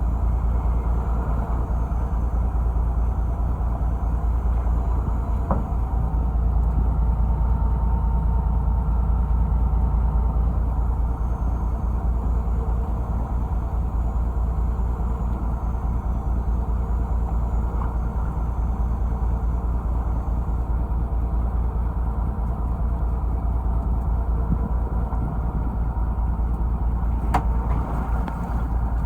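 Fishing boat's engine running steadily with a deep, even rumble. There is one sharp click a little before the end.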